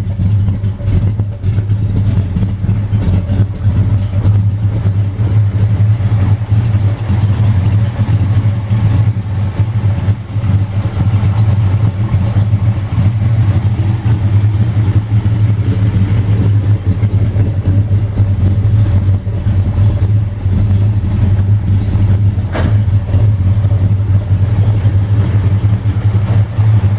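Mopar Performance 472 Street Hemi V8 running steadily at an even speed, a deep low engine note that holds constant throughout.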